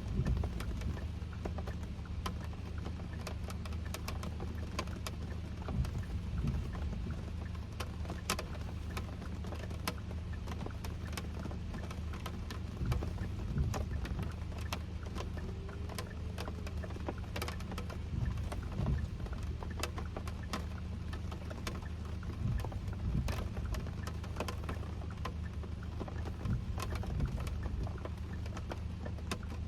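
Kia K5 (DL3) driving in the rain, heard from inside the cabin: a steady low road and engine drone with scattered raindrop ticks on the car.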